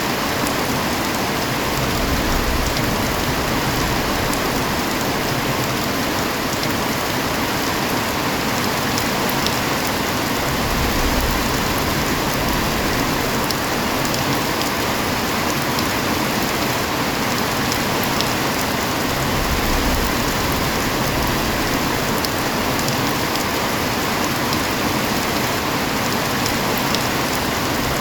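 Heavy rain falling steadily, a dense even hiss of drops on surfaces, with a low rumble swelling briefly three times.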